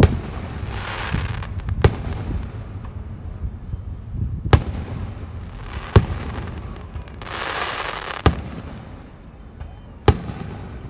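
Fireworks going off: six sharp bangs, one every one to two seconds, over a low rumble. Two stretches of hiss come around one second in and again about eight seconds in.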